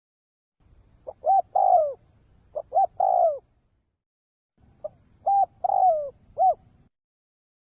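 Spotted dove cooing: two phrases of short, arched coos, each ending in a longer, falling note, a couple of seconds apart.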